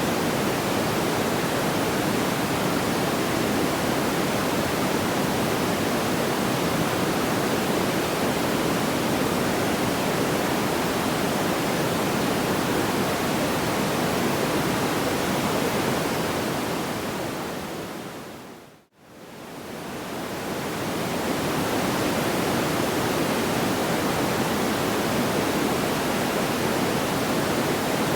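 A steady, even rushing noise, fullest in the low middle range, with no crackles or pops. About two-thirds of the way through it fades out to silence and fades straight back in, like the seam of a loop.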